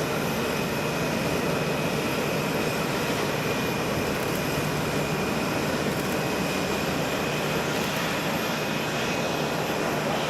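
Jet airliner engines running steadily, with a thin high whine held over the rush of the engines.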